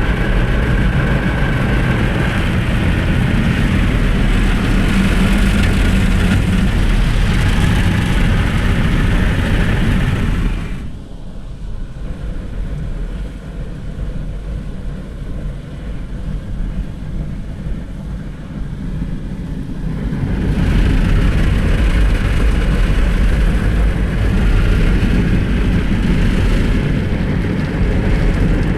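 Automatic car wash working over the car, heard from inside the cabin: a loud, steady wash of noise. About eleven seconds in it drops much quieter, and about ten seconds later it comes back loud.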